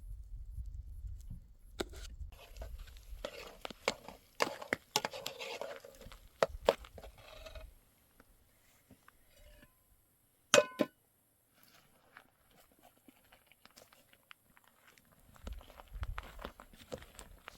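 Scattered crunching and clicking handling noises, then one short, sharp ringing clink about ten and a half seconds in. A low rumble sits under the start and comes back near the end.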